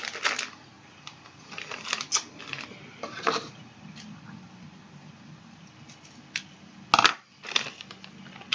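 Plastic candy-kit baggie and tray being handled: scattered short crinkles and clicks, the loudest about seven seconds in.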